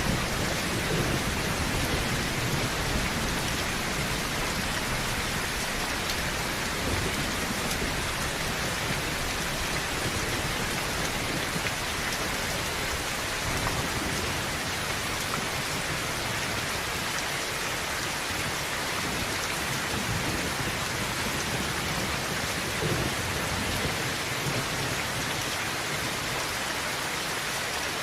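Heavy rain falling steadily on a tin roof, with a low rumble of thunder underneath that eases off in the second half.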